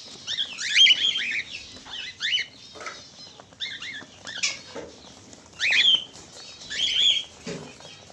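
Cockatiels giving short, repeated chirping whistle calls, several overlapping at times.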